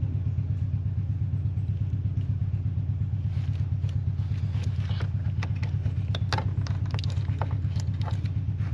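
A steady low machine drone with a fast, even pulse, with light clicks and clatter from about three seconds in as the fuel pump sending unit's electrical connectors are handled and plugged back in.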